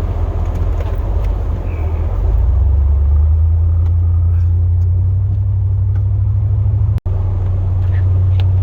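Chevrolet Silverado plow truck's engine running with a steady low drone, heard from inside the cab, growing louder about two seconds in as it pulls harder. The sound cuts out for an instant about seven seconds in.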